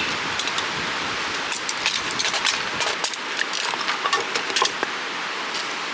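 Steady rush of a flowing creek and wind, with scattered light clicks and knocks of camping gear being handled.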